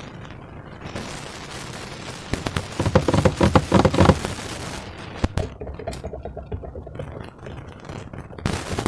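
Slime being squished and stretched by hand, a dense run of wet crackling and popping clicks, loudest from about three to four seconds in.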